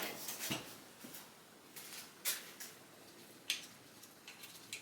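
A few scattered light clicks and knocks from hand tools and engine parts being handled during an engine teardown, with the loudest at the very start and about half a second in.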